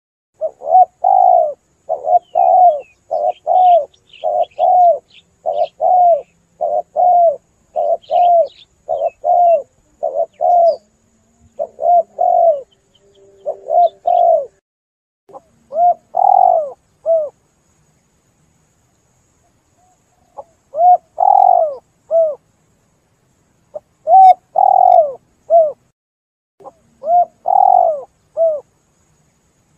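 Spotted dove cooing: a quick run of short coos, a little over one a second, for about the first half, then a pause of a few seconds and slower groups of two or three coos. Faint chirps of smaller birds sound above the coos in the first half.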